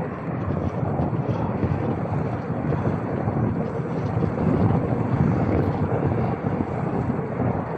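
Steady wind buffeting on the microphone, a dense low rumble with no distinct events.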